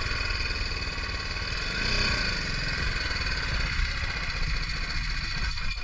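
Motorcycle engine running steadily at low speed, an even drone with no revving.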